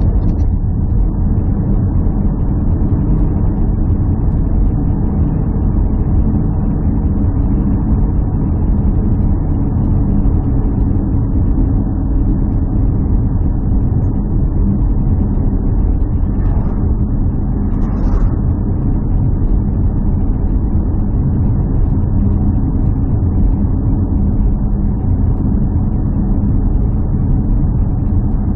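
Steady low rumble of a running motor vehicle, unchanging in level.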